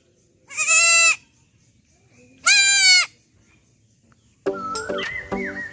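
A goat bleating twice, two high, quavering calls of about half a second each. Music starts near the end.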